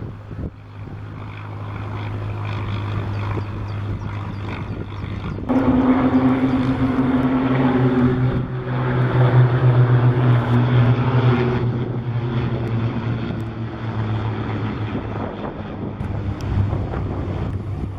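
Piston-engined propeller aircraft droning overhead. About five seconds in, a much louder formation of Fokker S11 trainers, with six-cylinder Lycoming engines, passes close. Their engine note drops in pitch as they go by and fades to a steady drone.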